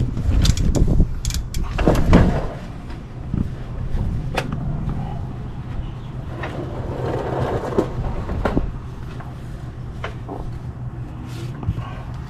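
Metal clanks, knocks and scrapes of hand tools and parts being handled during an oil filter change, heaviest in the first couple of seconds, over a steady low hum.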